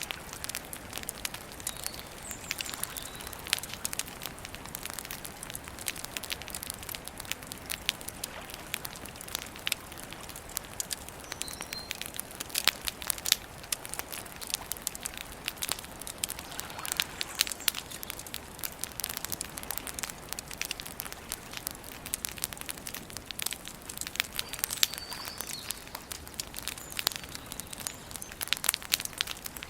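Wood campfire crackling, with irregular sharp pops throughout. A few faint, short bird chirps sound in the background.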